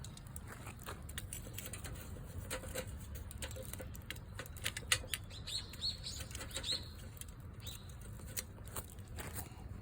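Campfire burning, the wood crackling with irregular sharp pops and snaps over a low steady rumble, with a few brief high squeaks around the middle.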